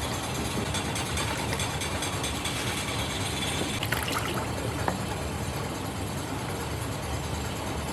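Steady motor-like running noise, a low rumble under an even hiss, with two short clicks about four and five seconds in.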